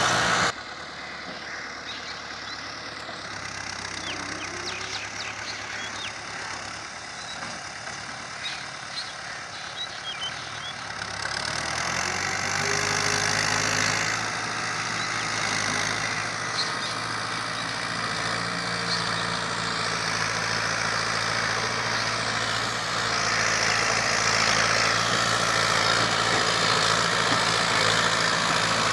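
Fiat 640 tractor's diesel engine running. It is quieter at first with light ticking, then steadies into a louder, even idle about twelve seconds in.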